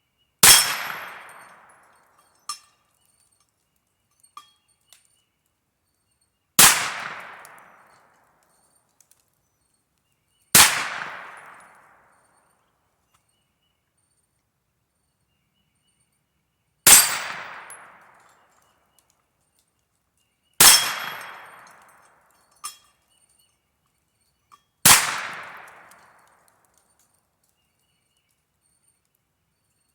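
Kel-Tec Sub 2000 9mm carbine firing six single shots a few seconds apart, each with a ringing, echoing tail. A few fainter sharp knocks come between the shots.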